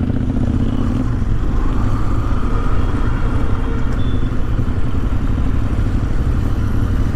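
Motorcycle engines running, a steady low rumble with no sharp events.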